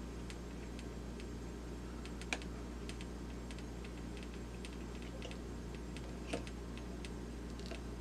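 Light, scattered clicks and taps of small plastic mechanism parts being handled, with two sharper clicks about two and six seconds in, over a steady low hum.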